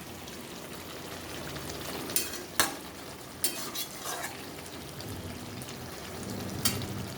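Chicken curry sizzling and simmering in a pan, with a spatula knocking and scraping against the pan about five times as it is stirred.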